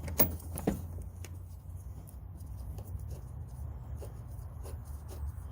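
Hands working plastic car trim parts: two sharp clicks or knocks in the first second, then lighter scattered ticks, over a steady low hum.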